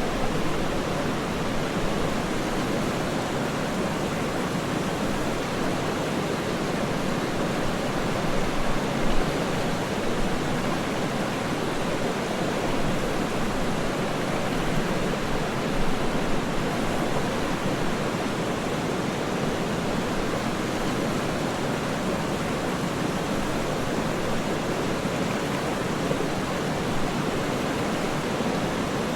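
Waterfall: a steady, even rush of falling water without distinct splashes or breaks.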